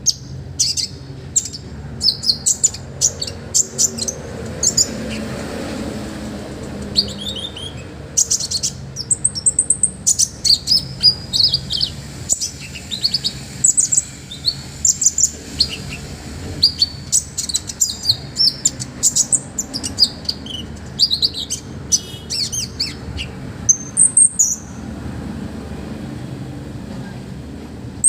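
A konin songbird singing non-stop: rapid runs of sharp, high chirps and trills, many notes a second, with brief gaps between phrases.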